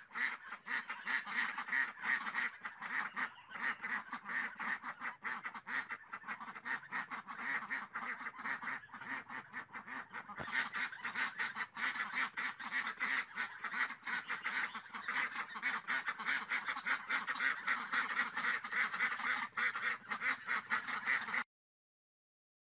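A flock of domestic ducks quacking, many short calls overlapping in a fast, continuous chatter. It cuts off suddenly near the end.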